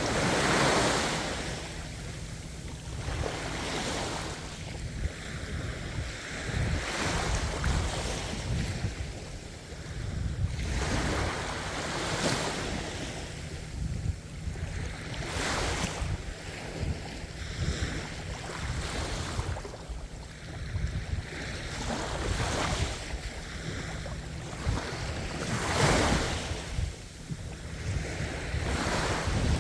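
Ocean waves breaking and washing up the shore, surging and falling away every few seconds, over a low rumble of wind on the microphone.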